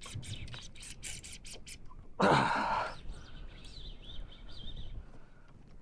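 A fishing reel's drag clicking in quick irregular bursts as a hooked fish pulls line. About two seconds in comes a short, loud, breathy grunt or gasp. Faint bird chirps follow.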